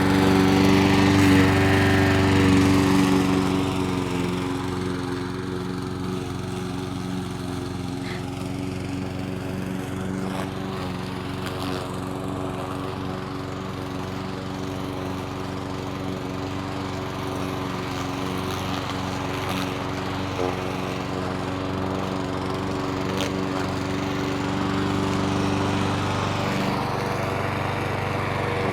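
Petrol lawn mower engine running steadily. It is louder for the first three seconds or so, then settles to a lower, even level that rises a little near the end.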